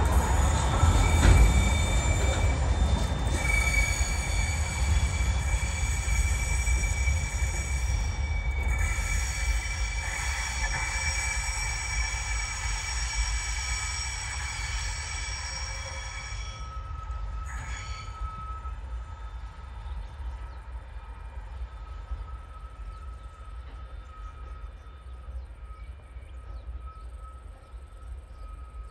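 Freight train wagons rolling slowly past with a low rumble, their wheels squealing in several steady high tones, the sound fading away as the train recedes.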